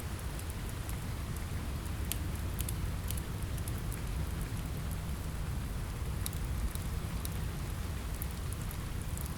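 Steady rain with a low, even rumble underneath, and scattered sharp crackles from a wood fire in a fireplace.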